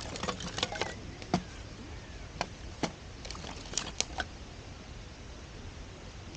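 Wood campfire crackling: a cluster of sharp pops and snaps in the first second and a half, a few more scattered through the middle, then only a steady low hiss.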